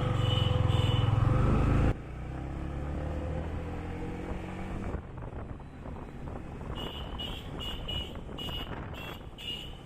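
A Yamaha MT-15 motorcycle being ridden in traffic, engine and wind rumble heavy at first and dropping off suddenly about two seconds in, then running on more quietly with the engine note slowly rising. Near the end a horn gives a quick run of about seven short, high beeps.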